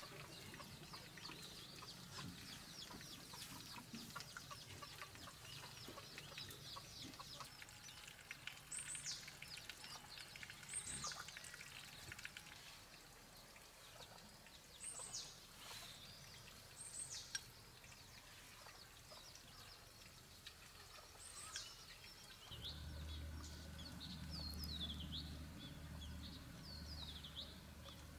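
Faint bird calls: short, high, falling chirps every few seconds, coming in a quicker run near the end. A low steady hum joins about two-thirds of the way through.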